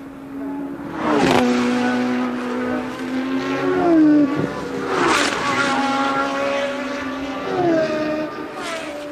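Formula One cars of the 1982 season passing at racing speed. They sweep past loudly about a second in, about five seconds in and again near the end, and each engine note drops in pitch as the car goes by.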